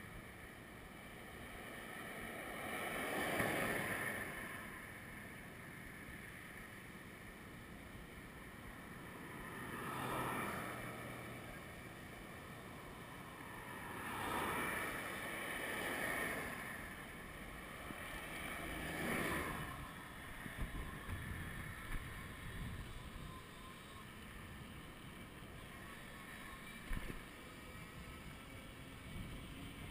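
Steady rush of wind and movement noise, with four louder swells of rushing noise that each rise and fade over a second or two. A few light clicks and knocks come later on.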